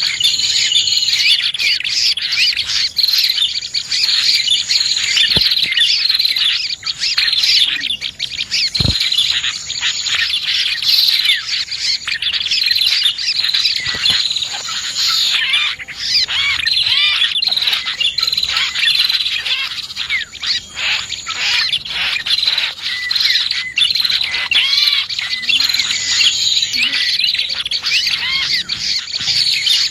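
Dense, unbroken chorus of small songbirds chirping and twittering: a bird-lure call recording of prenjak (prinia) and other small birds. A thin, high held buzzing note comes and goes several times over it.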